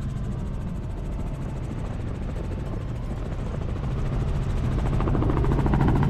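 Helicopter rotor and engine noise, a steady drone with a rapid even beat of the blades, growing louder about four seconds in.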